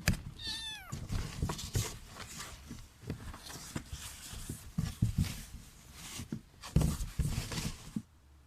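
A kitten gives one short meow that falls in pitch, about half a second in. Irregular rustling and knocks of handling follow through most of the rest.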